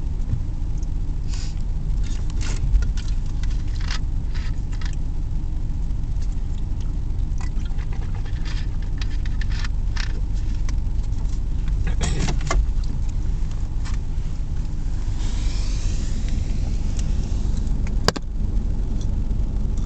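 Long freight train of empty flatcars rolling past: a steady low rumble with irregular metallic clicks and clanks, and one sharper click near the end.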